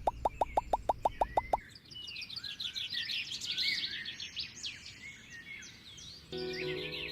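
A fast, even run of about a dozen short pips falling in pitch, like an edited sound effect, stops under two seconds in. Then many birds chirp, and music begins near the end.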